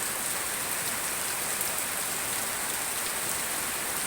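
Heavy tropical rain pouring down, a dense, steady hiss of rain on surfaces.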